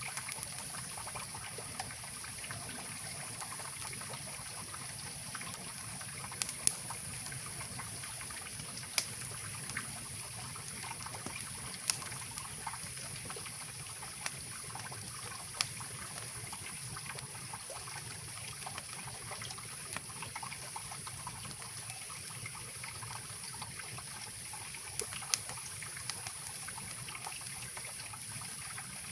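Mountain river rushing and trickling steadily, with a few sharp pops from a wood campfire crackling every few seconds.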